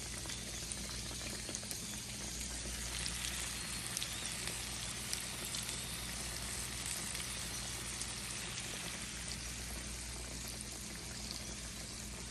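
Potatoes with garlic sizzling in olive oil and butter in a pan: a steady soft hiss with scattered small crackles, over a faint low hum.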